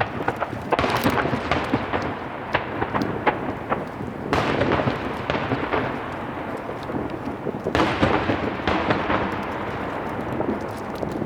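Star mine fireworks barrage: rapid shell bursts booming and rumbling, with dense crackling from the stars, building in three surges about three and a half seconds apart.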